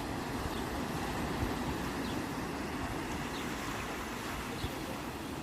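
Sea waves washing onto the shore in a steady, unbroken rush.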